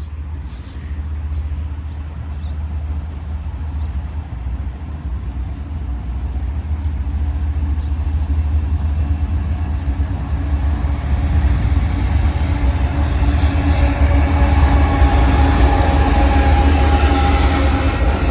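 Diesel freight locomotives approaching: a low engine rumble that builds steadily louder, with faint steady tones rising out of it toward the end.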